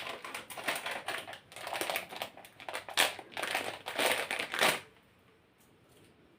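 Crinkling and crunching handling noises in a dense run of bursts lasting about five seconds.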